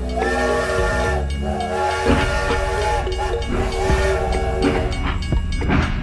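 Toy steam-train whistle, three held whistle tones of about a second each, over a low rumble.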